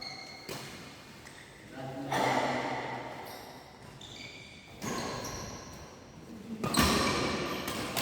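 Badminton rally: sharp racket-on-shuttlecock hits about every two seconds, each echoing in a large hall, with short high squeaks in between.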